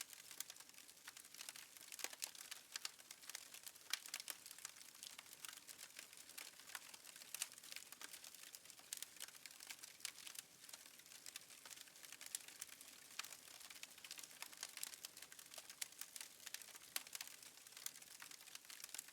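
Wood fire in a fireplace crackling faintly: a dense, irregular stream of small pops and snaps.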